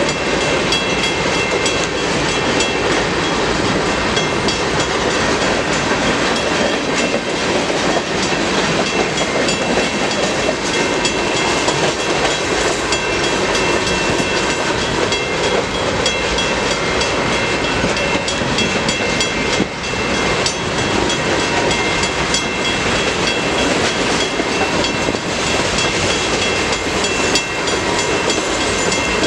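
Freight cars of a CN manifest train rolling steadily past, with a continuous rumble and clatter of wheels on the rails and a faint high ringing over it.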